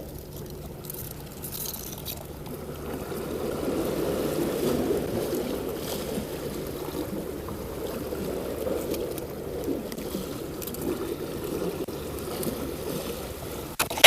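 Fishing boat at sea: a steady low engine hum mixed with water and wind noise, with a sudden loud bump right at the end.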